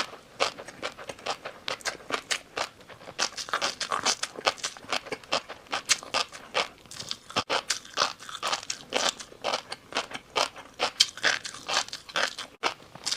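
A person chewing crunchy noodles: a continuous run of crisp crunches and crackles, several a second.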